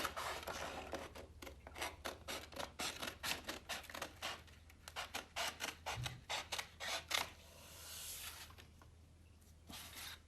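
Scissors cutting through a sheet of paper, a steady run of snips about three a second that stops about seven seconds in, followed by a brief rustle of paper.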